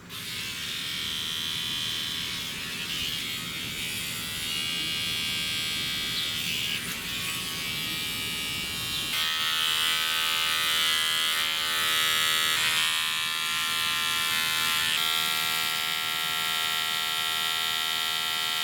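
Steady buzzing drone of a small motor, whose pitch pattern shifts about nine seconds in.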